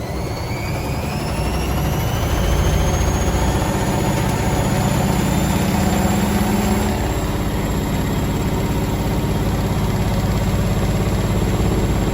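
Logik L712WM20 washing machine running its service-mode test program: the drum motor whines, rising in pitch over the first several seconds as the drum speeds up, then holding steady over a low rumble.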